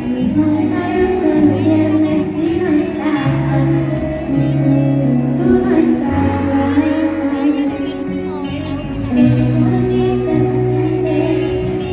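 A pop song performed live: a woman singing a melody over a band, with a steady bass line underneath.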